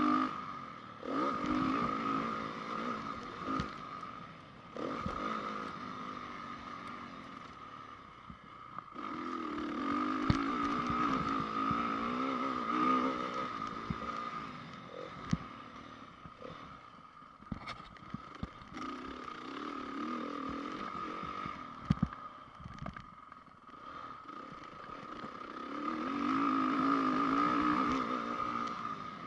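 A 2010 Honda CRF450 motocross bike's single-cylinder four-stroke engine, revving up hard and backing off again and again as it goes around the track. The throttle surges come about a second in, around ten seconds in and near the end. Scattered knocks and clatter come from the bike over the rough ground.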